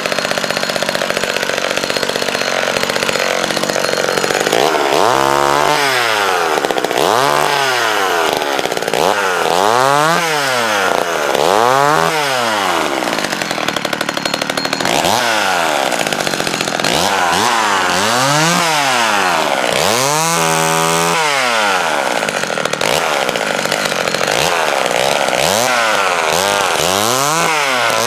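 McCulloch Mini Mac 35 two-stroke chainsaw running steadily for about four seconds, then revved up and down over and over, each rise and fall lasting about one and a half to two and a half seconds.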